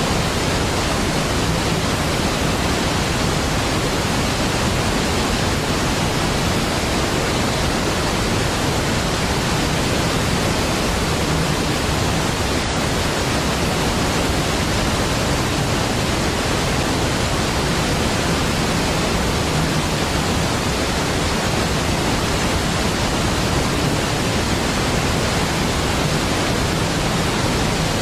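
Large waterfall: a steady, deep roar of falling water, unchanging throughout.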